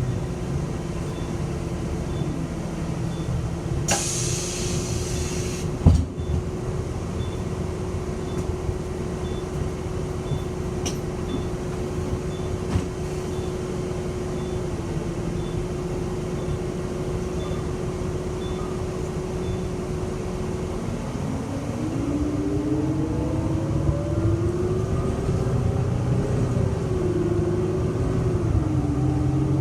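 City bus engine running steadily, heard from inside the bus, with a short hiss of air about four seconds in followed by a sharp knock. From about two-thirds of the way through the engine pitch climbs in rising steps as the bus pulls away and speeds up.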